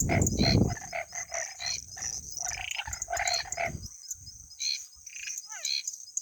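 Night chorus of frogs giving quick, repeated short calls over a steady high-pitched insect drone. The frogs thin out after about four seconds, and a quick run of short falling notes comes near the end. A low rumble sits under the first second.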